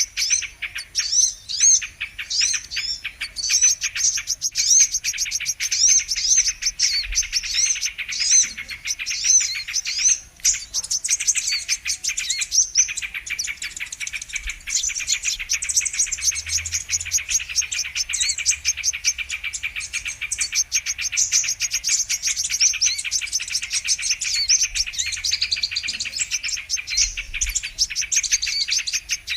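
Brown-throated sunbird (kolibri kelapa) song: a continuous stream of rapid, high twittering chirps and trills, with a brief break about ten seconds in.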